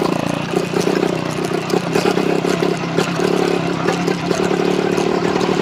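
Small two-stroke motorized-bicycle engine running at low speed. It is uneven and choppy for the first few seconds, then settles into a steady note while the engine is still cold.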